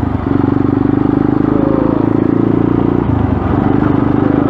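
Dirt bike engine running under throttle while riding, its note dropping briefly right at the start and again about three seconds in, then picking back up.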